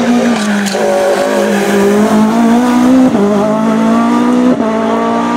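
Race car engine pulling hard up through the gears: its pitch climbs steadily, then drops sharply at two upshifts, about three and four and a half seconds in.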